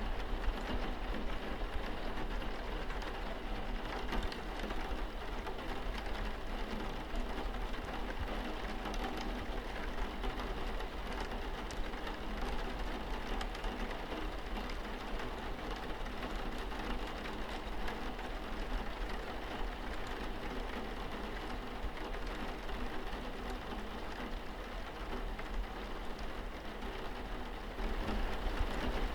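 Steady rain falling on a window pane, an even hiss with scattered single drop hits, over a low steady hum.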